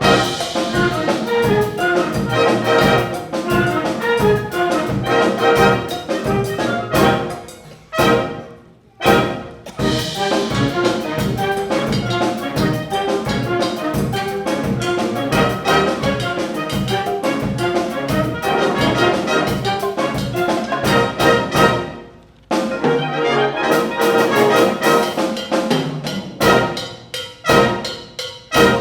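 Wind band playing a brass-led piece with trumpets, trombones and percussion. The full band stops briefly twice, about a third of the way in and again later, and after the second stop it plays a thinner passage.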